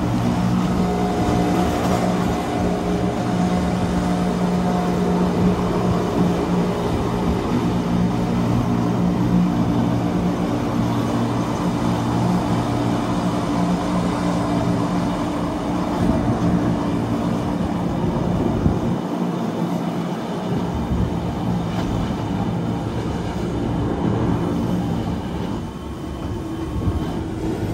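Wengernalpbahn electric rack-railway train running, heard from inside the carriage: a steady motor hum over the continuous noise of the train on the track.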